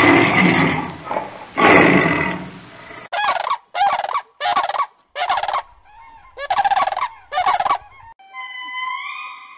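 Two long, loud roars from a big cat. Then, after a cut, six short harsh calls from a domestic fowl.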